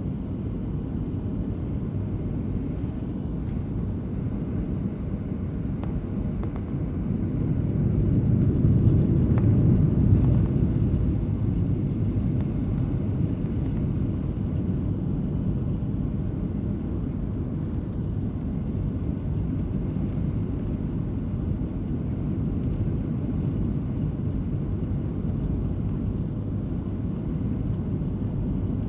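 Airliner cabin noise on final approach: a steady low rumble of engines and airflow, swelling louder for a few seconds about eight seconds in as engine power is raised.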